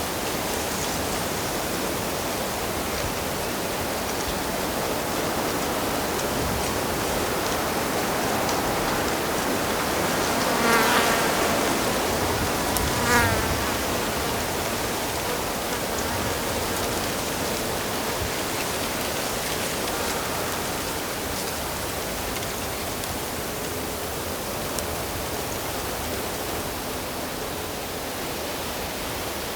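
Steady rush of flowing stream water. Twice, around the middle, an insect such as a fly buzzes briefly close to the microphone.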